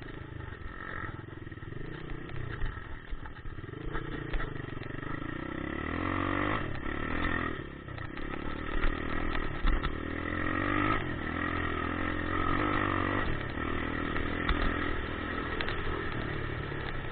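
Dirt bike engine running and being revved, its pitch rising and falling repeatedly, louder from about six seconds in.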